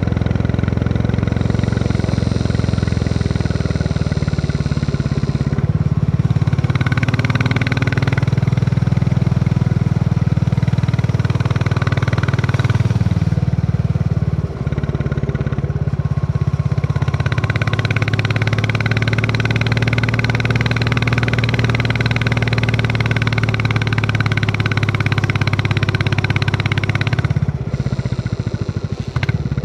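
Single-cylinder engine of a Royal Enfield Classic 350 running under way, a steady low thump whose pitch shifts a couple of times as the throttle or gear changes, with brief drops in level as the rider shifts.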